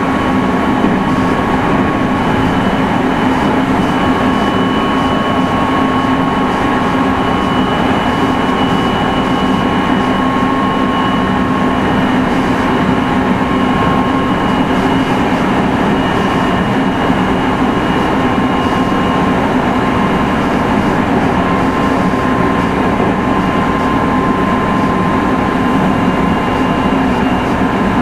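Meitetsu 3100 series electric multiple unit running at a steady speed: a continuous rumble of wheels on rail with a steady whine from the drive.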